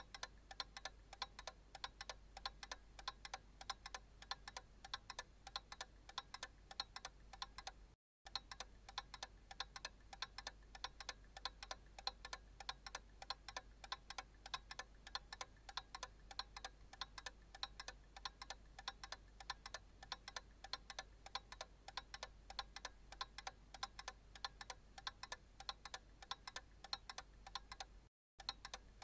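Analog clock ticking steadily and faintly in an even train of sharp ticks. The sound cuts out completely for a moment twice, about eight seconds in and near the end.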